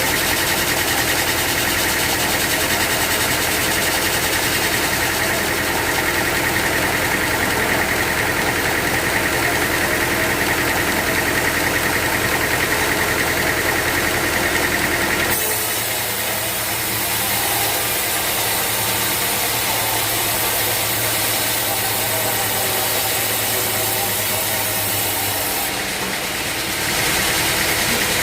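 Sawmill machinery running steadily under an engine hum, with a steady high whine. The sound changes abruptly about halfway through and again near the end.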